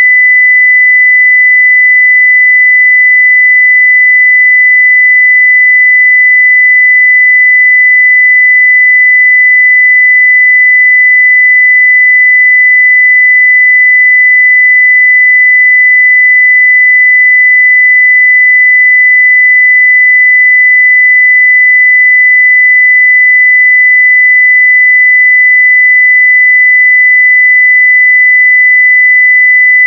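Steady 2 kHz sine-wave test tone at full level (0 dB), one pure unchanging high-pitched pitch.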